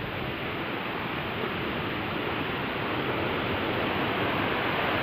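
Water rushing and pouring through the rain catcher, a steady, loud rush that slowly grows louder.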